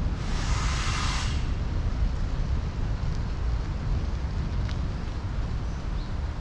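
Steady low rumble of city traffic and wind while cycling, with a brief sharp hiss lasting about a second near the start.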